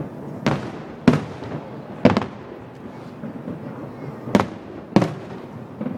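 Aerial fireworks shells bursting overhead: sharp bangs at irregular intervals, about six in all, two of them close together near the middle.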